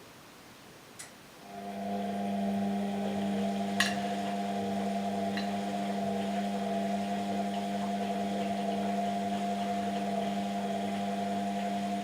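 Washing machine motor turning the drum, starting about a second and a half in with a steady, even-pitched hum and cutting off near the end, as in a wash cycle's turn-and-pause rhythm. A sharp click about four seconds in.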